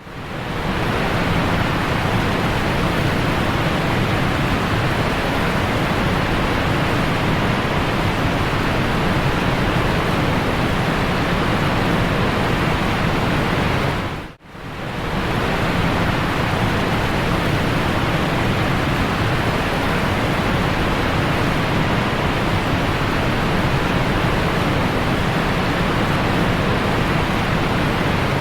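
Loud, steady rush of falling water from a rainforest waterfall and stream, cut off for an instant about halfway through before carrying on.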